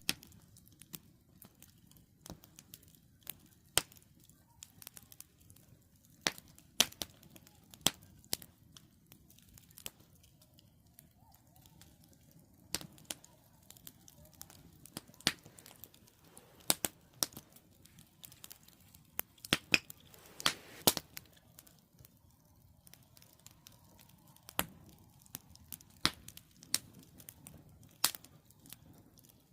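Wood campfire crackling, with irregular sharp pops and snaps of burning firewood over a faint low hiss.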